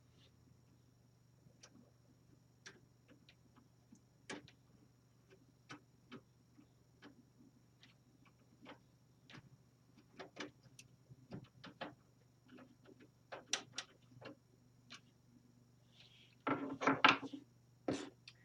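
Scattered light clicks and taps as cables and parts are handled and fitted inside an open desktop computer case, with a louder burst of clattering near the end.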